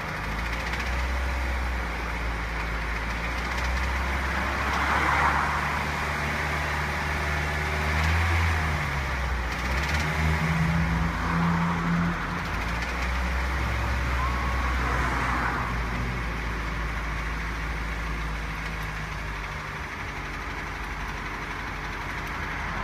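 Toyota 1NZ-FE four-cylinder engine running, its speed shifting up and down, with the high-pitched metallic rattle from inside the freshly rebuilt engine that the owner is trying to trace.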